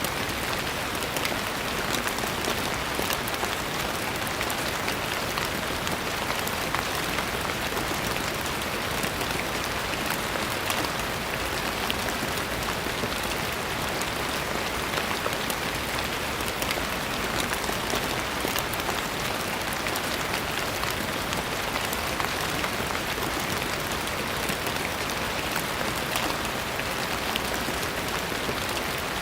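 Steady rain falling, an even hiss with many fine patters of drops striking a surface.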